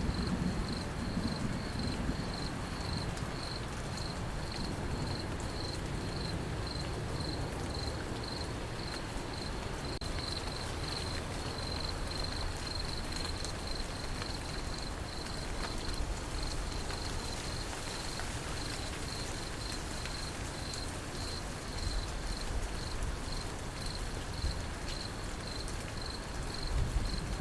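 Cricket chirping in a steady, evenly spaced rhythm over a continuous hiss of rain, with a low thunder rumble dying away in the first second or two.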